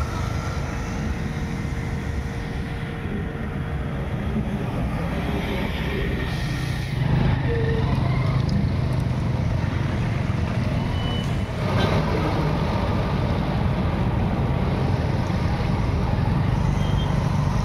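A heavy vehicle's engine running steadily, getting louder about seven seconds in.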